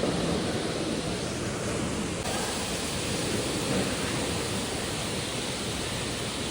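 Steady rushing cabin noise of an Airbus A350 jet airliner: engine and airflow noise heard from inside. The hiss brightens suddenly a little over two seconds in.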